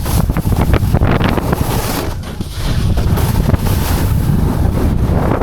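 Loud wind buffeting a helmet-mounted action camera's microphone as a snowboarder rides fast downhill. It eases briefly about two seconds in.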